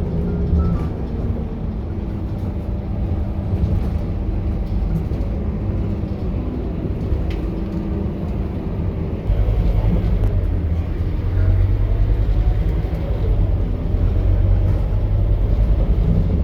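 Scania K230UB bus's engine running as the bus drives, a steady deep rumble that steps up and gets louder about nine seconds in as the engine pulls harder under the ZF automatic gearbox.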